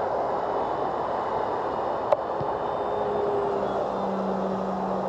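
RC airplane's motor and propeller in flight over a steady rushing noise, with a steady hum that comes in about three seconds in and holds. A single short click about two seconds in.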